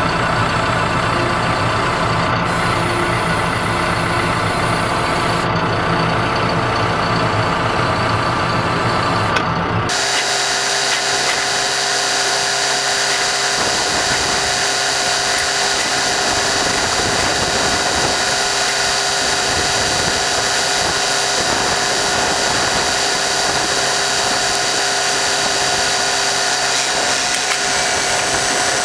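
Tractor engine running steadily. About ten seconds in, the sound changes abruptly: the low rumble drops away and a steady high whine with several held tones carries on.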